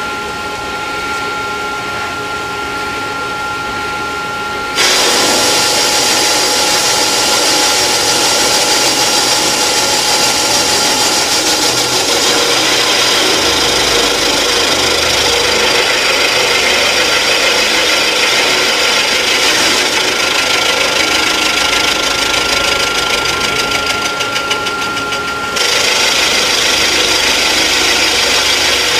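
Rottler F90Y CNC machine running with a steady whine, then about five seconds in its cutter bites into the metal with a loud, continuous cutting noise as it machines a water-hole repair. The cutting eases briefly near the end and then resumes.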